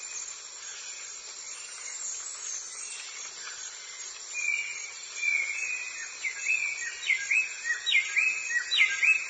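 A steady chorus of insects chirring, joined about halfway by a series of short whistled animal calls. Each call drops in pitch, and they come roughly once a second, getting louder towards the end.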